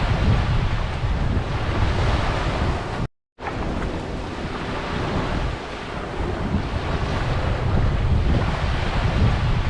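Waves washing on a tropical beach, with wind buffeting the microphone in a heavy low rumble. The sound cuts out completely for a moment about three seconds in.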